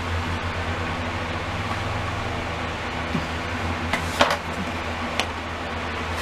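Steady low machine hum, like a fan running, with a few light clicks and a short, sharper rattle about four seconds in.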